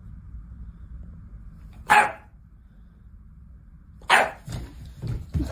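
A dog barking: one bark about two seconds in, then several more barks in quick succession near the end, over a low steady background rumble.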